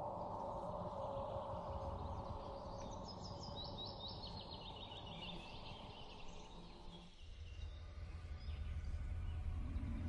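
Background ambience with a bird chirping in quick repeated high notes over a steady hiss; about two-thirds of the way in, the hiss gives way to a low rumble.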